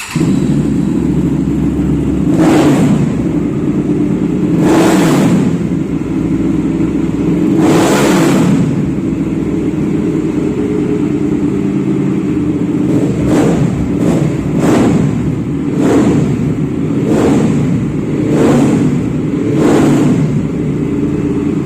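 Hyosung GT650R (Naza Blade 650) V-twin engine running loudly through an SC-Project aftermarket exhaust. It holds a steady idle and is blipped about nine times: three spaced revs, then a quicker run of six in the second half.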